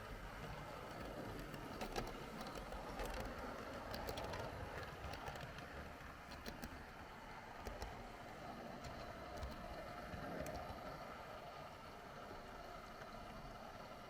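H0 scale model train running along the track, its wheels rolling with a steady rattle, a faint motor hum and irregular sharp clicks over rail joints and points.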